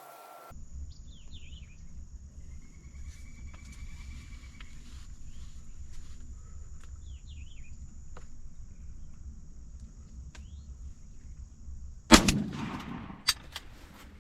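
A single gunshot at a turkey, sharp and loud with a long echoing tail, about twelve seconds in, followed a second later by two sharp clicks. Before it, small birds chirp over a steady high insect drone in the quiet woods.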